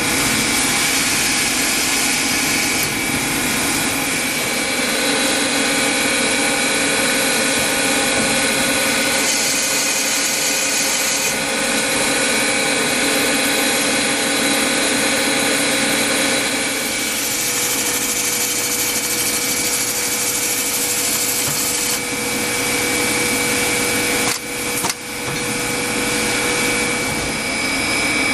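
Machine tool running steadily during machining, a dense mechanical noise with several steady whining tones. The mix shifts a few times and dips briefly about 24 seconds in.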